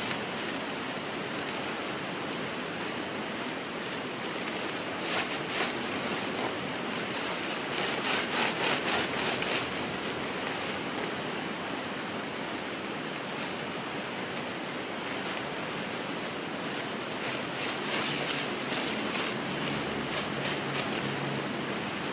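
Steady rush of a river flowing, with several bursts of rubbing and rustling from gear being handled: a short one about five seconds in, a longer run of quick strokes a few seconds later, and more near the end.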